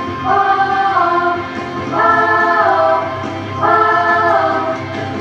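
A choir sings three long held notes without words over a steady low accompaniment.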